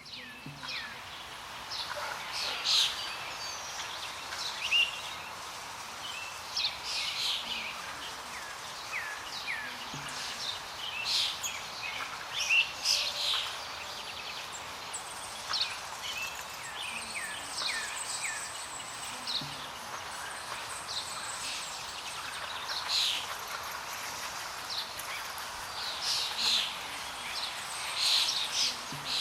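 Several birds chirping and calling in many short, quick notes, over a steady background hiss.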